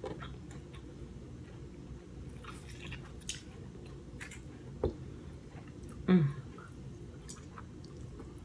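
Chewing and biting on king crab leg meat: wet, squishy mouth sounds with small clicks, and one sharp knock about five seconds in. About six seconds in comes a short, low vocal sound that falls in pitch.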